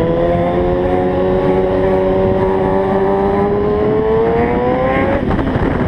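Kawasaki ZX-6R's inline-four engine pulling under throttle, its note rising slowly for about five seconds and then breaking off, over a steady rush of wind noise.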